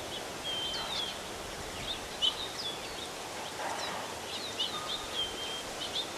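Several small birds chirping and calling outdoors, with quick rising and falling chirps and short held whistled notes, over a steady background hiss of open-air ambience.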